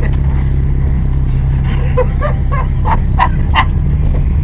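Mini's engine and road noise heard from inside the car at speed, a steady low drone. Several short shouted vocal calls come between about two and three and a half seconds in.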